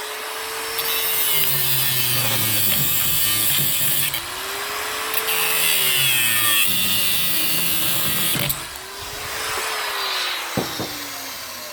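Angle grinder cutting through a bolt: two long spells of the disc grinding on metal, each a few seconds, with the motor's pitch rising and sagging under load, then the grinder running lighter near the end once the cut is through.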